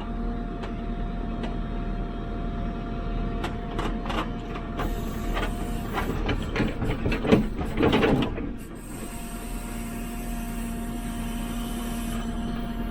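JCB 3CX backhoe loader's diesel engine running under load with a steady whine, heard from the operator's cab while it digs, with scattered knocks and a louder burst of knocking and rattling about seven to eight seconds in.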